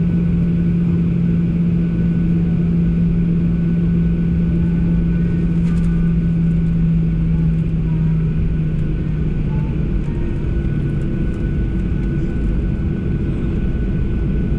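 Boeing 737 jet engines heard from inside the passenger cabin: a steady loud rumble with a low hum that fades away about eight or nine seconds in, and a faint steady whine above it.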